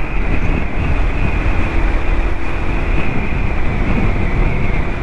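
Honda Hornet motorcycle running steadily at highway speed, heard as a dense, loud rush of wind and engine noise over the rider's microphone, with a steady high-pitched whine on top.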